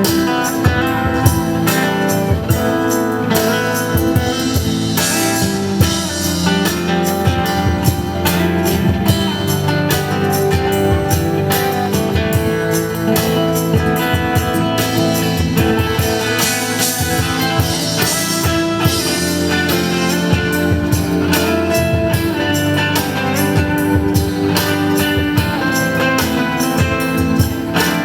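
Live band music: guitar over a drum kit keeping a steady beat.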